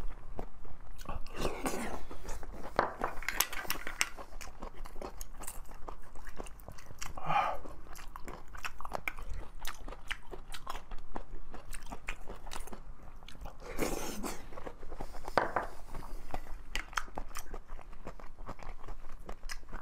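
Close-miked chewing of soft cooked clam meat: wet mouth smacks and many small sharp clicks, with a few louder slurping mouth sounds scattered through.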